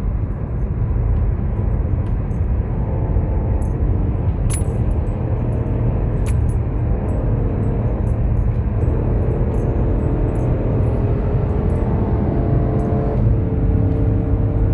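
Car engine pulling through the gears as it accelerates, shifted by hand with the paddle shifters: its pitch rises, drops at a shift about nine seconds in, then rises and drops again near the end. A couple of sharp clicks come a few seconds in.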